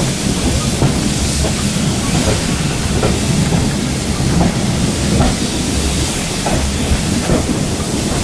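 Heritage railway carriage running on the rails: a steady rumble of wheels on track with scattered clicks and brief squeaks.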